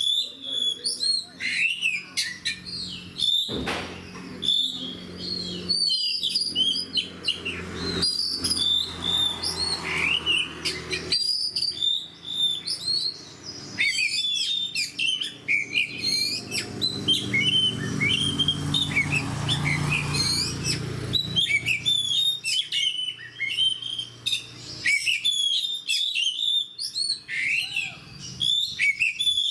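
Oriental magpie-robin singing without pause: a rapid run of varied, high whistled notes, trills and chirps. A faint low hum sits under the song for much of the middle.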